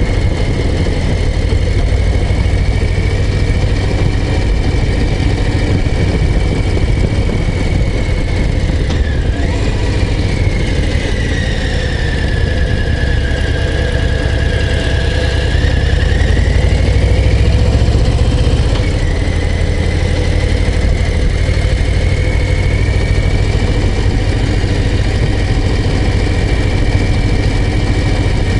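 Harley-Davidson Low Rider ST's Milwaukee-Eight 117 V-twin running under way, a steady deep engine sound. Its level swells for a couple of seconds past the middle and then eases. A high whine above it sinks in pitch midway and comes back up.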